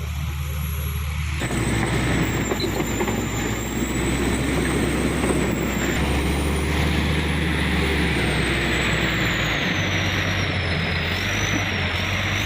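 Isuzu Elf dump truck's diesel engine running, revving up about a second and a half in and then held at high revs.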